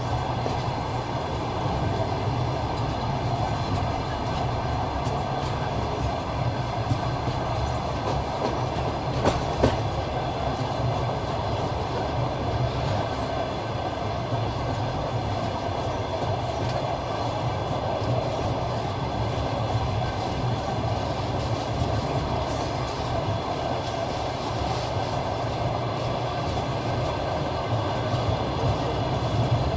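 Passenger train carriage rolling at speed: steady low rumble and rail noise with the clatter of wheels over the rail joints, and a couple of sharper knocks about nine seconds in.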